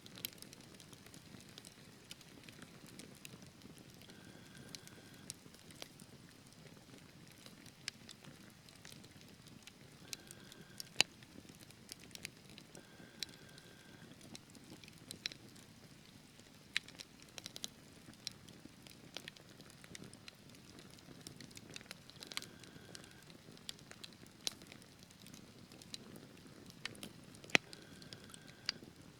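Wood fire burning in a fireplace: a soft steady rumble of flames with scattered crackles and sharp pops from the burning logs. The two loudest pops come about eleven seconds in and near the end.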